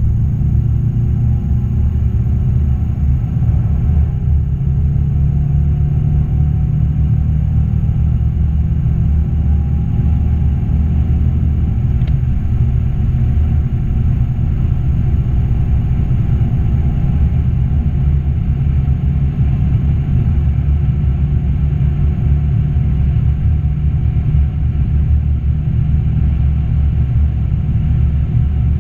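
Cabin sound of a 2.2-litre Skyactiv-D four-cylinder diesel pulling at full throttle with a deep, steady rumble, its engine note climbing slowly as the car gains speed. There is one upshift from third to fourth.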